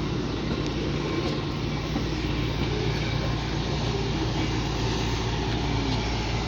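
Train's diesel locomotive running steadily, a constant low engine drone.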